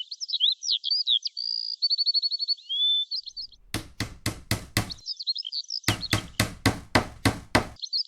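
Two quick runs of sharp knocks at about five a second, first about six strokes, then after a short pause about ten more, over continuous bird chirping.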